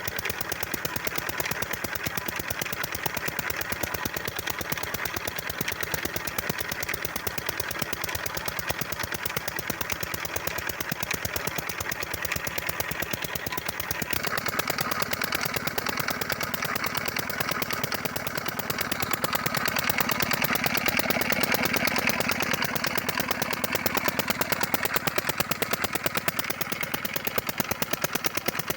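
An 18 HP diesel engine running steadily, driving a tube-well water pump, with a rapid, even chug of firing strokes. Its tone changes about halfway through and it runs a little louder after that.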